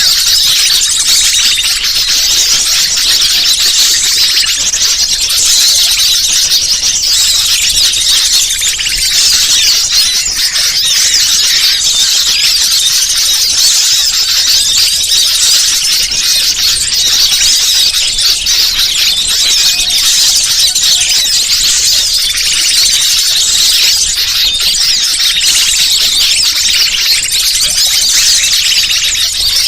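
Bird-lure (pikat) recording: dense, continuous high-pitched bird chirping and twittering, played to draw wild birds in.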